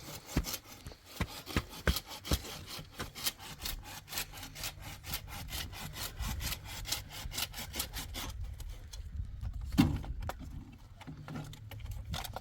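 Hand sawing with quick, even strokes that stop about eight seconds in, over a low steady rumble.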